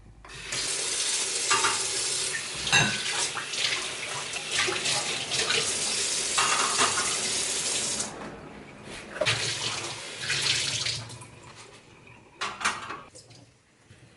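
Kitchen tap running water into a sink with a few clinks of dishes; the water stops about eight seconds in, followed by a few shorter splashes and knocks.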